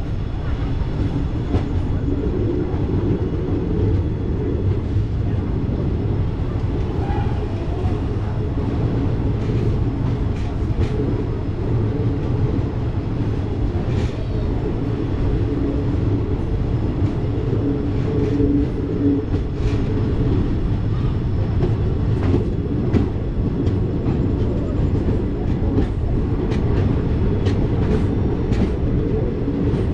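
Passenger train running: a steady low rumble of wheels on track, with scattered clicks of wheels over rail joints.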